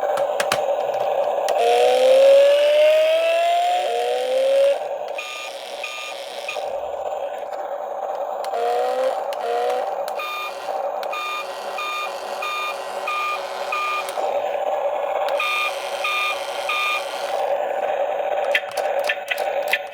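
Electronic sound effects from a battery-powered RC toy: a steady electronic tone with rising pitch sweeps, then runs of short evenly spaced beeps like a reversing alarm.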